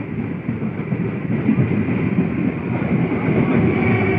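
An EMU electric local train running past close by, with a steady low rumble and irregular wheel clatter. A steady motor whine comes in near the end.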